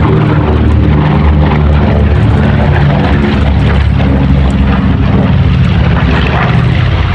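Piston engines of a P-51D Mustang and a Corsair fighter passing in a display, a loud steady drone.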